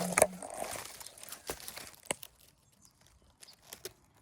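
Bramble and undergrowth rustling and crackling as it is handled or pushed through, with a few sharp snaps, fainter in the second half.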